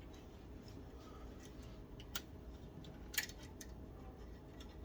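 A few light, sharp clicks and ticks, the two clearest about two and three seconds in, from cables and plastic parts being handled while routing cables inside a PC case.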